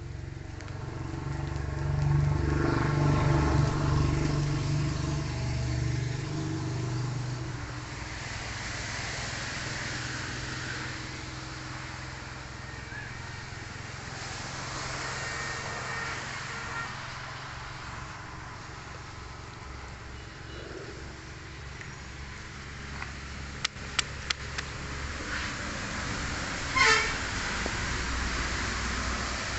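A motor vehicle's engine passing close by, loudest a few seconds in, followed by a steady outdoor hum of traffic. A few sharp clicks come later, and a short loud horn-like toot comes near the end.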